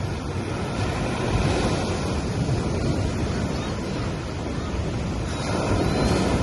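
Gentle ocean waves washing onto a sandy beach: a continuous surf wash that swells about a second in and again near the end as waves break.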